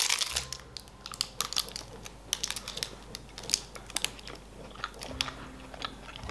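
Close-up chewing of a candy, with irregular small mouth clicks and crunches.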